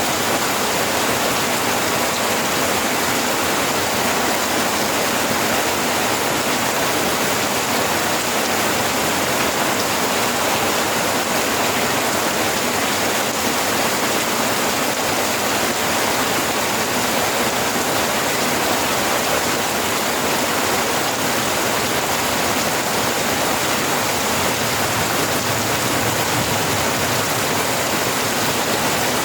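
Steady heavy rain falling, an even unbroken hiss with no distinct drops or pauses.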